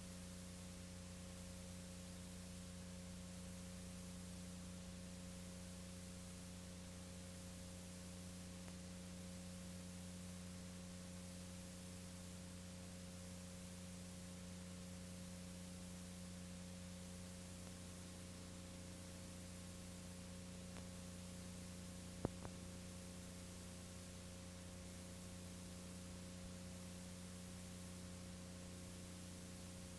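Steady electrical hum with hiss and no program sound, broken by a single sharp click about three quarters of the way through.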